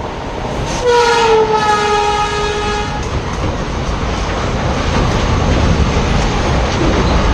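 WAG-9 electric locomotive sounding its horn for about two seconds as it passes at speed, the tone falling slightly in pitch. It is followed by the steady rushing rumble of the container wagons going by close up, growing louder.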